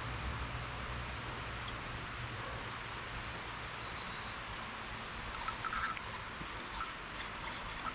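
Steady high chorus of insects, with a run of short sharp clicks and rustles in the last few seconds.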